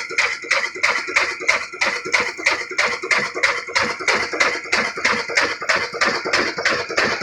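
Old black desi 'Kala' single-cylinder diesel engine running steadily at low speed, a sharp even knock about five times a second.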